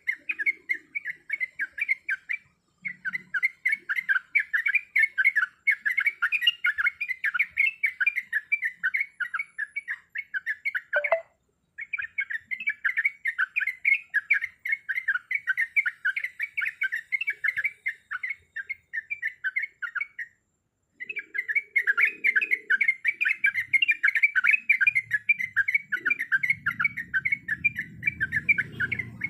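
Yellow-vented bulbul (trucuk) singing a fast, continuous chattering rattle of short notes, in three long bouts broken by brief pauses.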